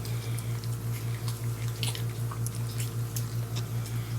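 Portuguese water dog puppies eating their first soft food, with faint wet smacking clicks scattered through. Under them runs a steady low hum that pulses several times a second.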